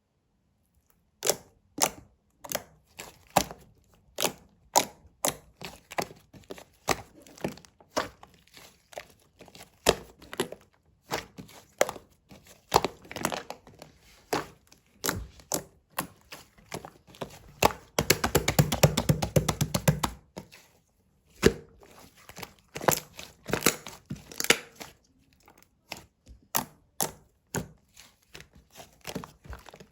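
A long run of separate sharp taps and knocks, like objects being handled and set down, with a dense rapid clatter for about two seconds a little past the middle.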